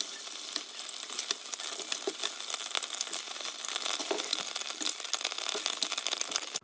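Pork loin tapa frying in hot oil in a pan: a steady sizzle with frequent crackles and pops.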